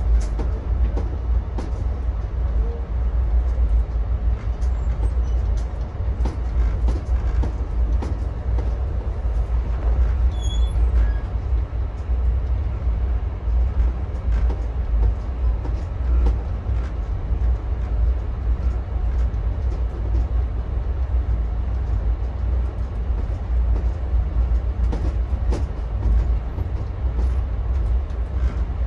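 A train running at speed, heard from on board: a steady deep rumble with scattered sharp clicks from the wheels on the track.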